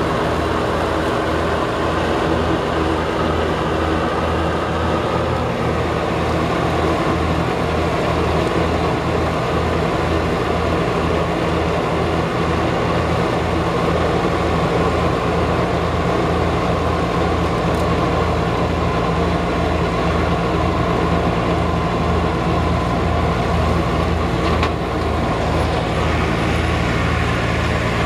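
Tractor engine running steadily, with a low throb pulsing two or three times a second. The engine note shifts slightly near the end.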